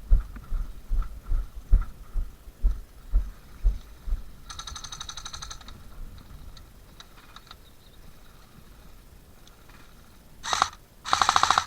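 Footsteps thumping about twice a second, then rapid full-auto bursts from an airsoft electric gun: a one-second burst about four and a half seconds in, a short one near ten and a half seconds and the loudest one near the end.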